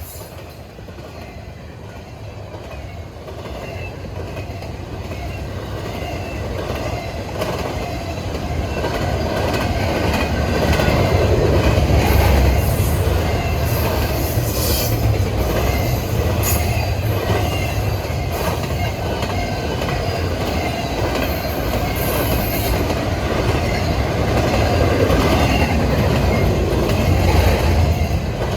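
Train rolling past on the rails, growing louder over the first ten seconds and then staying loud with a heavy rumble. Wheels squeal now and then, and the wheels click over the rail joints.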